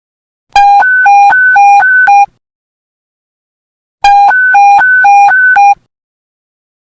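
Police panic-button alert tone: loud electronic beeps alternating rapidly between a low and a high pitch, sounded in two bursts of under two seconds each, about two seconds apart.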